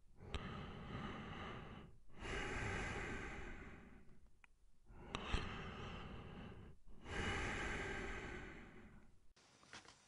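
A person breathing slowly and deeply through the mouth, in and out, about four long breaths of roughly two seconds each with short pauses between them. There is a brief click near the middle.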